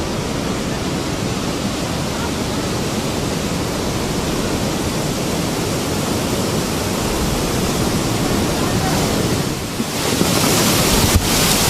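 Steady rushing of seawater mixed with wind buffeting the microphone. The noise dips briefly just before ten seconds in, then returns louder and hissier, with one sharp knock about a second later.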